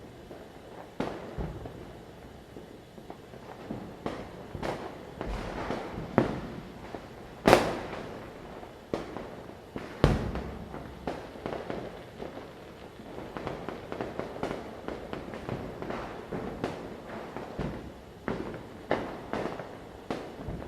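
Firecrackers going off at irregular intervals, near and far, over a steady background of distant crackling. Two of the bangs, about seven and a half and ten seconds in, are the loudest, each with a ringing tail.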